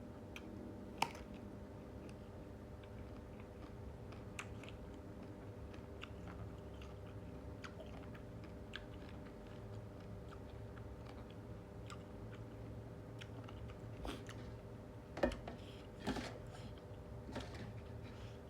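A person chewing and biting a spicy instant-noodle seafood salad with squid and shrimp, with many small wet clicks and a few louder ones near the end, over a steady low hum.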